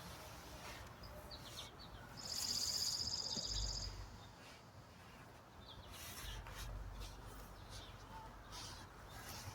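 A bird gives one high, buzzy trill about two seconds in, lasting under two seconds, over faint intermittent rustling.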